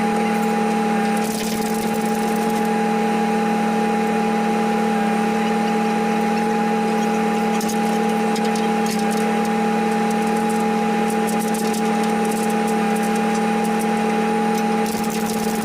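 Rollback tow truck's engine running steadily with a constant hum, with scattered light clicks and rattles.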